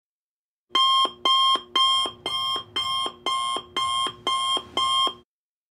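Electronic alarm-clock sound effect: nine pitched beeps at about two a second, each dropping to a lower note at its end, starting about a second in. The first three beeps are the loudest.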